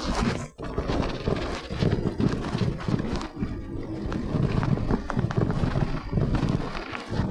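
Mountain bike riding over a rough dirt trail: tyre rumble and irregular knocks and rattles from the bike, with wind buffeting the microphone.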